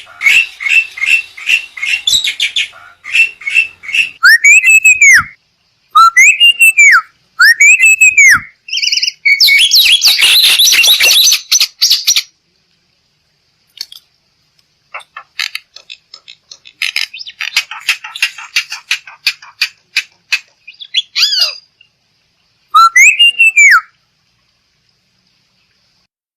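Black-winged myna (jalak putih) singing loudly. A varied song of rapid chattering, three rising-and-falling whistles, then a harsh scratchy screech, a short pause, more clicking chatter and one last arched whistle near the end.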